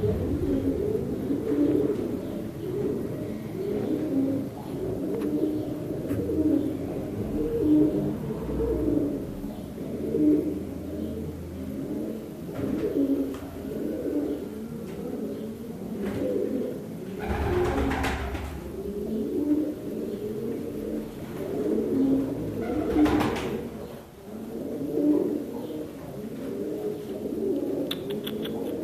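Several pigeons or doves cooing continuously, their low calls overlapping. Two brief rushes of noise break in, about seventeen and twenty-three seconds in.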